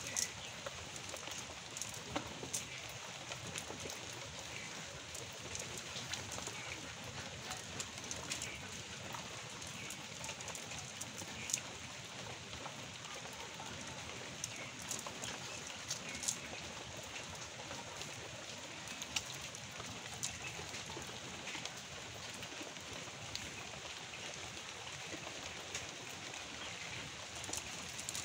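Light rain falling steadily, an even hiss with scattered small ticks and patters of drops.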